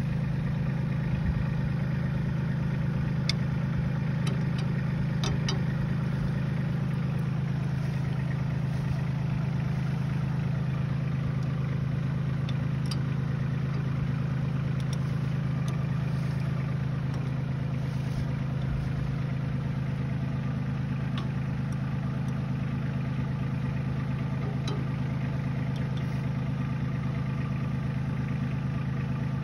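Diesel tractor engine idling steadily, with a few light clicks in the first few seconds.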